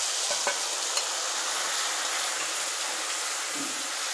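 Boiled bottle gourd pieces and their cooking water sizzling in hot oil in a kadai, a steady hiss, with a few light taps of a metal perforated ladle stirring them in the first second.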